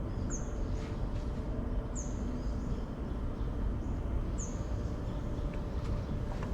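A bird calling a short, high, thin note that falls slightly in pitch, three times about two seconds apart, over a steady low rumble.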